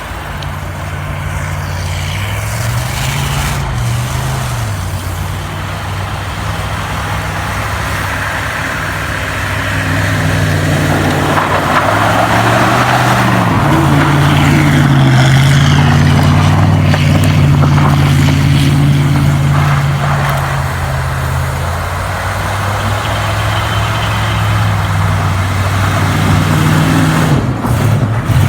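1968 Dodge Charger's 383 V8 running hard under throttle, its pitch rising and falling several times and held steady in between, over a loud rush of tyres and snow that grows louder about a third of the way in.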